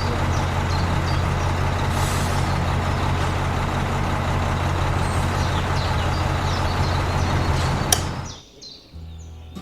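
A machine running steadily with a low hum and a hiss, which cuts off about eight seconds in, just after a sharp click.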